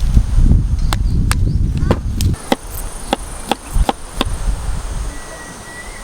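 Wood campfire crackling: irregular sharp pops and snaps, over a low rumble that fades about two seconds in. A bird chirps briefly near the end.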